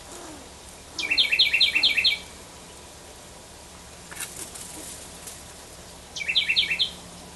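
A backyard songbird calls twice, each time a quick run of four or five sharp, evenly repeated notes lasting about a second. A brief faint rustle a little past halfway may be wings flapping.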